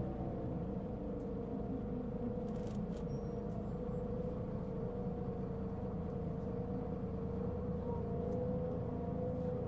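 Mitsubishi Fuso Aerostar city bus (LKG-MP37FK, six-cylinder turbo-diesel) heard from inside while driving: a low steady rumble with a constant whine that wavers slightly in pitch. The bus was making a considerable abnormal noise at the time.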